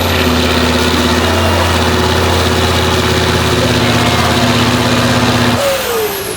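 Heavy truck engine running loud at steady revs; about five and a half seconds in the note breaks off and the revs fall away.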